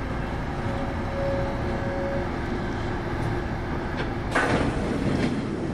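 Kintetsu 8810 series electric train heard from inside the car while running: a steady low rumble with a faint whine, and a louder rushing burst starting about four seconds in.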